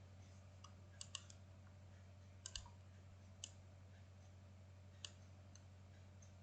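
Faint, scattered computer mouse clicks, some in quick pairs, over a steady low electrical hum.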